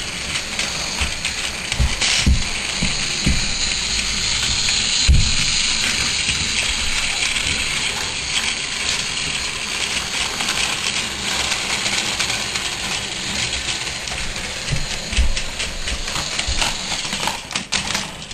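Toy Thomas the Tank Engine train running along its track: a steady hiss with scattered clicks and knocks.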